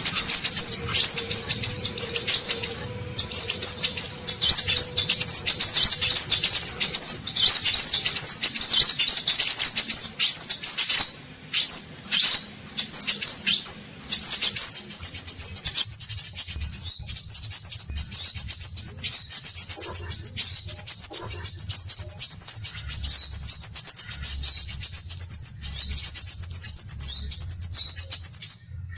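Scarlet minivet (sepah raja) singing vigorously. Fast, high chattering notes with quick glides give way a little before the middle to a few separate downslurred whistles, then to a long, rapid, even trill of repeated high notes.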